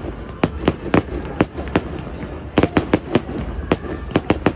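Fireworks display: a rapid, irregular string of sharp bangs and cracks, several a second, each with a short echo, over a steady low rumble.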